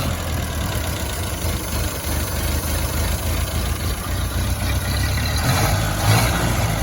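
1931 Ford Model A truck's four-cylinder engine idling steadily just after starting.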